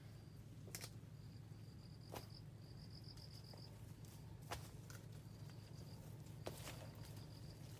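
Faint high insect trills that start and stop in short runs, with four sharp clicks spread through, and a steady low hum underneath.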